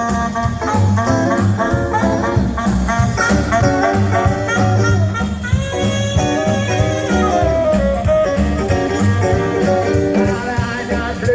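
Live band playing an up-tempo swing or jump-blues instrumental, with saxophone and brass lines over a steady bass and drum beat.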